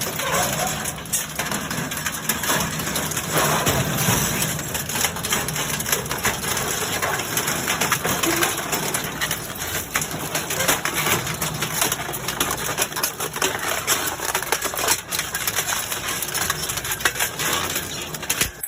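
Industrial metal shredder tearing through scrap metal, a continuous grinding and crunching dense with sharp cracks and knocks.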